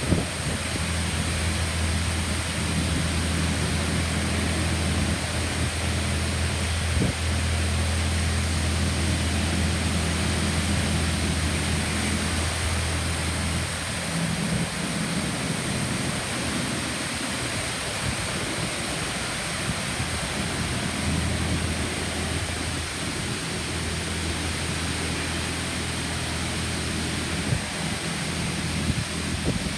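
Automatic car wash spraying water over a car: a steady rushing hiss with a low hum under it. The hum eases about fourteen seconds in and comes back around twenty-one seconds.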